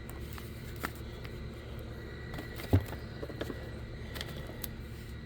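Light handling sounds: a few faint clicks and taps and one soft thump a little under three seconds in, over a steady low hum.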